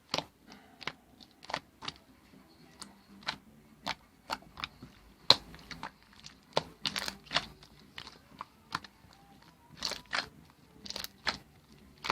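Irregular sharp clicks and taps, one or two a second, with a few quick clusters.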